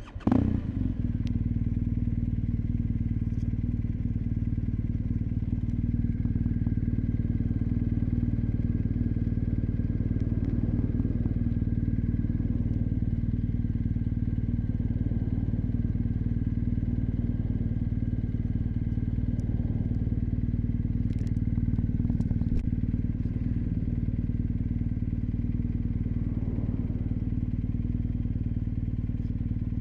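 BMW R 1250 GS Adventure's boxer-twin engine starting up and then idling steadily, with a low rumble.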